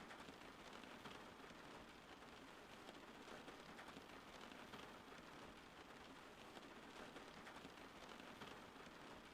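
Soft, steady rain falling, an even hiss of many fine drops with no change in intensity.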